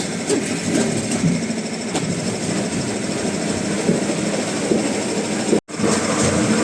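Woodworking machinery running steadily with a dense mechanical clatter, cutting out for an instant about five and a half seconds in.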